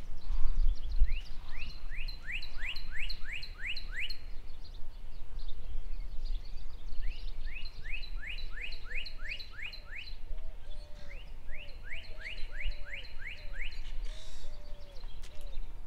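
Songbird singing: a phrase of about eight quick down-slurred notes, sung three times with pauses between. A second, lower bird call repeats in short notes through the second half, over a steady low rumble.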